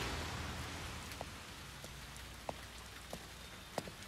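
Steady rain falling, with scattered single drips landing; the rain fades down over the first second or so.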